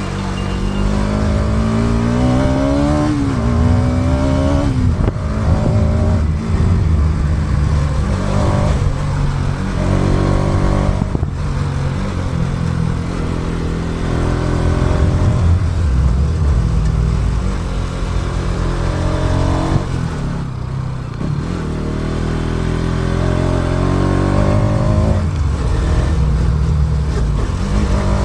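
Motorcycle engine running under way, its pitch rising and dropping back several times as the rider accelerates and eases off, over steady low rumble and rushing noise, picked up by an action camera's built-in microphone.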